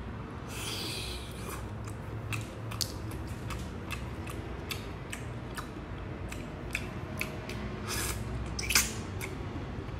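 A man eating a peeled cooked shrimp: close wet chewing with many small clicks. Near the end comes a brief, louder suck as he draws meat from a shellfish shell held to his lips.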